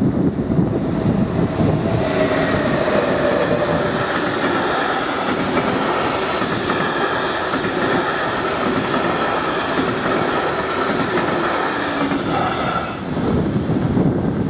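NMBS intercity train of M6 double-deck coaches passing over a level crossing: wheels running on the rails, coming up about two seconds in and fading away about thirteen seconds in.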